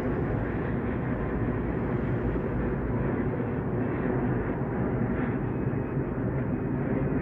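Steady low rumble of a departing commuter train, out of sight down the line.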